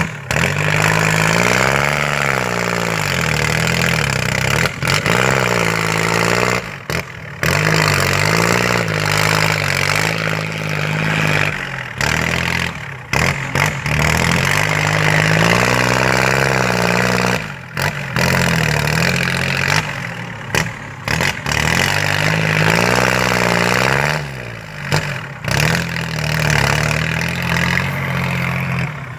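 An engine running and being revved up and down over and over, its pitch rising and falling in repeated swoops, with a few brief cut-outs along the way.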